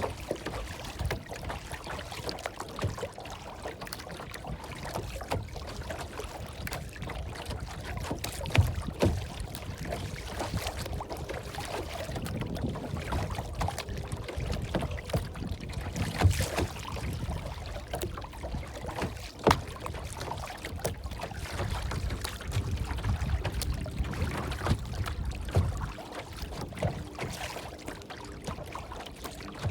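Irregular water splashing and lapping, with scattered small knocks over a low rumble.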